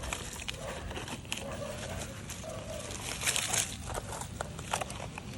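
Animal calls: a series of short low notes, each under a second, in the first half, with scattered clicks and a brief hiss a little past three seconds in.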